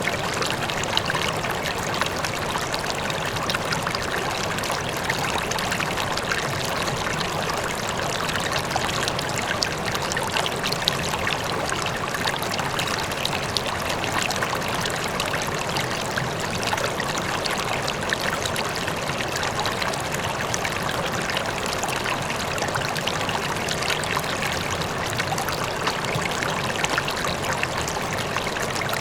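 River water flowing steadily over rocks, an even splashing rush with fine babbling detail, with a faint waterfall in the distance.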